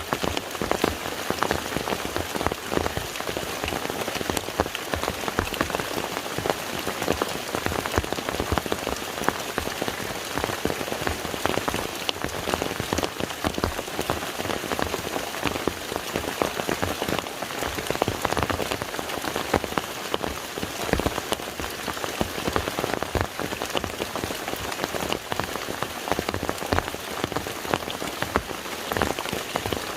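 Steady rain falling on the surface of a lake: an even wash of rainfall with many separate drop hits scattered through it.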